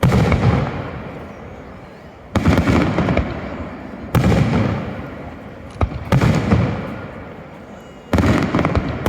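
Aerial fireworks shells bursting: five loud bangs about two seconds apart, each followed by a rumbling echo that fades away.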